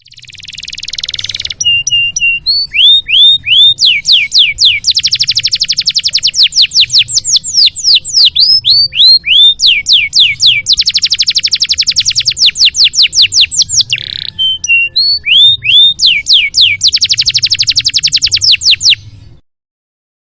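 Domestic canary singing a long, loud song: repeated downward-sweeping whistles alternating with several fast trills, ending abruptly about a second before the end.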